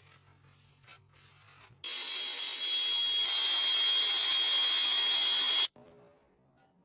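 A small electric motor runs for about four seconds with a loud hiss and a steady high whine, starting abruptly about two seconds in and cutting off suddenly. Before it there is a faint low hum with a few small clicks.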